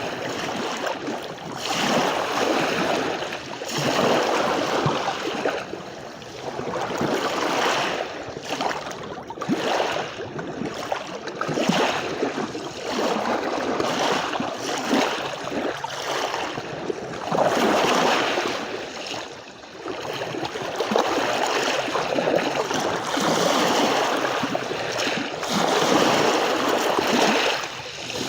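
Sea waves washing onto a beach, each wash swelling and falling back every few seconds.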